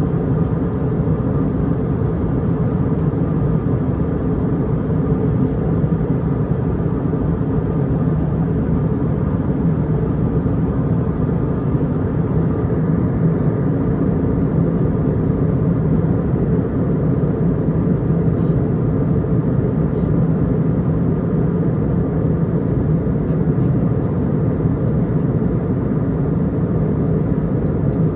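Steady airliner cabin drone of an Airbus A320 in cruise: a constant low rumble of engine and airflow noise with a faint steady hum, unchanging throughout.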